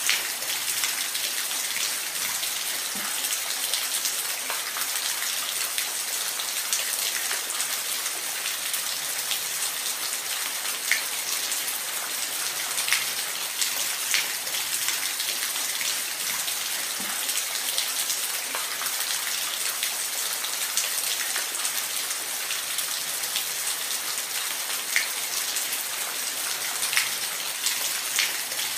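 Steady rain falling, with scattered individual drops ticking out against the even hiss.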